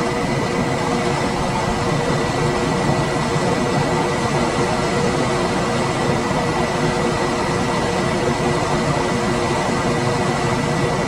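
Room air conditioner running steadily: an even rush of fan air with a low hum and a faint high whine.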